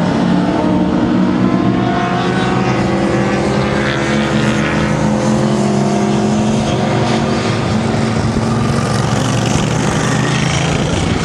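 Several track-day motorcycles racing past on a circuit, their engines overlapping and rising and falling in pitch as they accelerate and pass.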